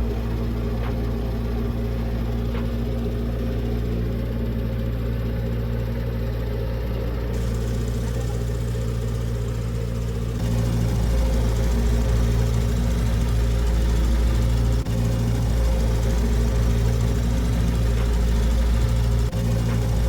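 Engine of a Berky mower boat running steadily, getting louder about halfway through.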